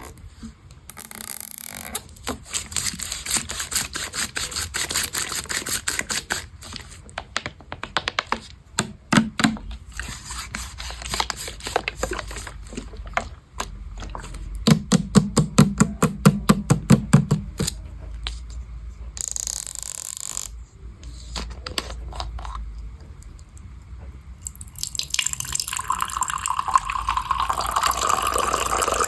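Runs of rapid, sharp clicking and tapping, some in fast even trains, then water starting to run from a tap near the end.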